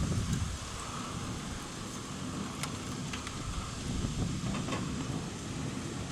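Low, rolling rumble of thunder, swelling at the start and again about four seconds in, with a few faint clicks.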